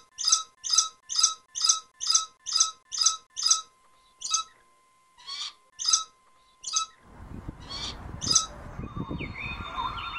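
A bird calling over and over, about two short calls a second, then more sparsely after about four seconds. From about seven seconds a low steady noise comes in, with faint warbling birdsong near the end.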